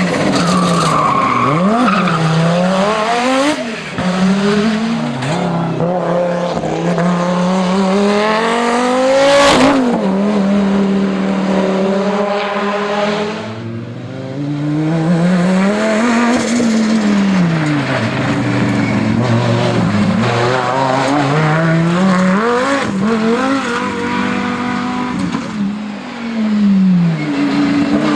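Audi Sport Quattro S1 Pikes Peak's turbocharged five-cylinder engine revving hard, its pitch climbing and dropping again and again as it is driven up through the gears and lifts off between bends.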